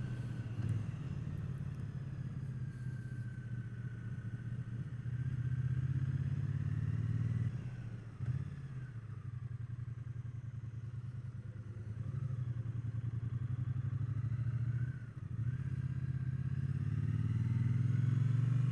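Triumph Bonneville T120's 1200 cc parallel-twin engine running under way, its note dropping briefly twice, about eight and fifteen seconds in, before pulling again.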